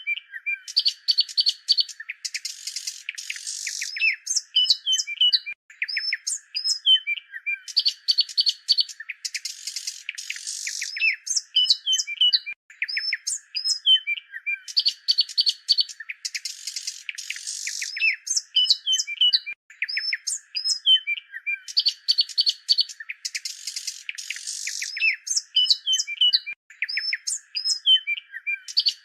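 Birds chirping and trilling in quick, overlapping calls. The same few-second passage repeats about every seven seconds.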